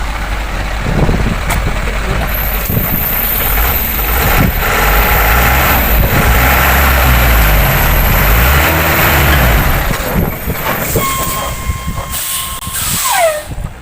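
Heavy diesel engine of a loaded dump truck running hard, loud and steady, as the truck sinks into soft ground. The strain eases about ten seconds in. Near the end come a brief steady tone and a short falling squeal.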